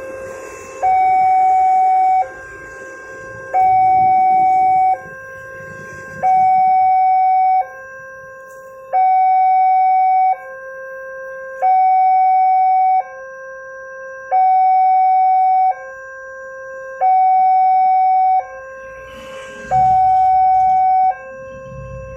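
Level-crossing warning alarm sounding an electronic two-tone hi-lo signal: a louder high tone and a softer low tone alternate about every one and a half seconds, eight high tones in all, warning that a train is approaching. A low rumble joins near the end.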